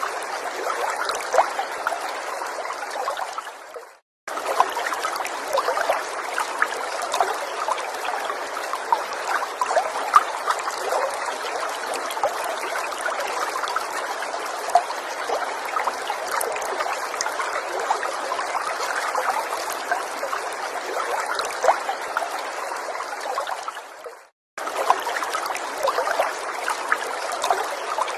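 Small forest stream trickling and babbling steadily, with many small splashes. The sound fades out briefly about four seconds in and again near the end, then cuts straight back in each time.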